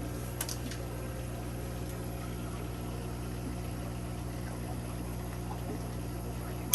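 Aquarium pump and filter running: a steady low hum with faint water bubbling. A sharp click right at the end.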